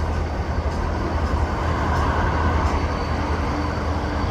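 Four EMD diesel-electric road locomotives, three SD38s and an SD35, standing and idling: a steady low rumble.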